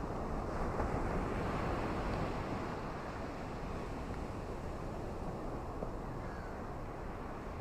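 Ocean surf washing on a shore in a steady rush, one wave swelling louder about a second in and then easing back.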